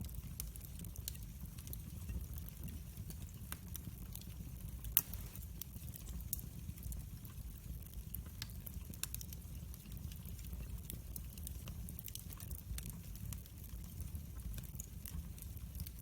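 Wood fire burning in a fireplace: scattered crackles and pops over a low steady rumble, with one louder pop about five seconds in.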